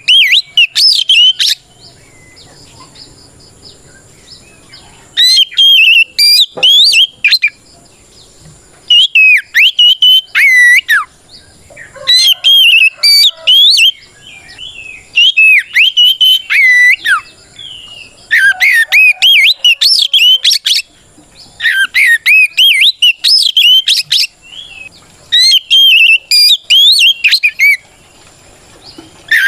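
Oriental magpie-robin (kacer) singing loud, fluent whistled song in phrases of about two seconds, quick rising and falling notes, repeated after short pauses about every three seconds. This is a full challenge song calling out a rival male, the kind used to provoke other magpie-robins into answering.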